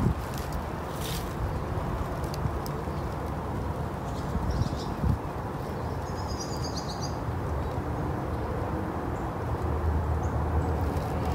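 A small bird gives a quick run of high chirps about six seconds in, with a shorter high call just before it, over a steady low rumble.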